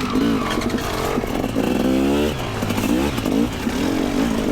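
Two-stroke dirt bike engine running and being revved in short blips, its pitch climbing sharply about two seconds in.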